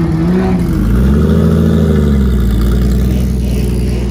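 Ferrari F430's V8 engine revving as the car pulls away at low speed. Two short rises and falls in pitch, the second about a second in and longer, then it settles into a steady low drone.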